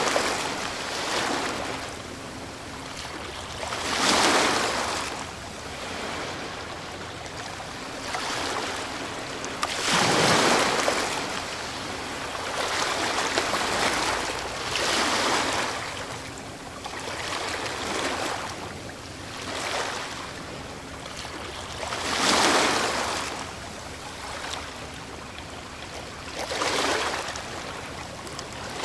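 Ocean waves breaking and washing up the shore, each wave a hissing surge that swells and fades, a big one every five or six seconds with smaller ones between.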